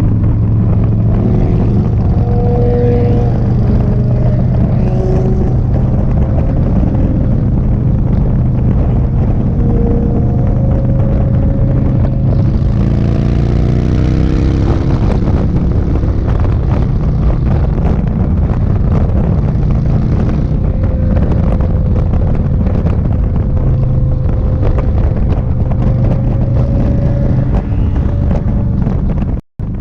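Indian Sport Chief motorcycle's V-twin engine running while riding, with wind rushing over the microphone. The rushing grows louder for a few seconds about halfway through.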